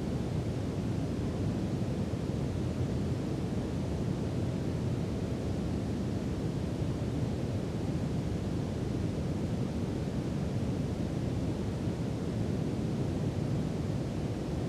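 Brown noise: a steady, even rumble-like hiss, strongest in the low end and fading toward the highs, with no changes.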